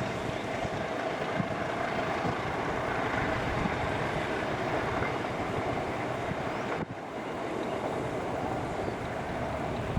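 Passenger train running past, a steady rumble of wheels on the rails, broken only by a brief dip about seven seconds in.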